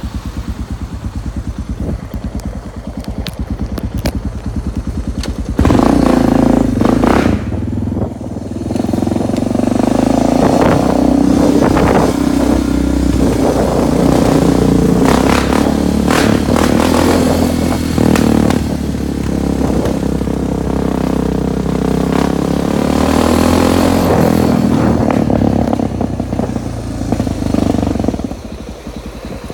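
Suzuki DR650 dirt bike's single-cylinder four-stroke engine idling with an even beat, then about five seconds in it gets much louder and runs at higher revs, its pitch rising and falling for the rest of the stretch and easing off near the end.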